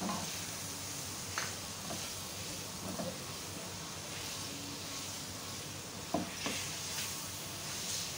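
Boiled, mashed potatoes and spices frying in a little oil in a nonstick pan, a steady sizzle under a silicone spatula stirring them, with a few short scrapes and taps of the spatula against the pan.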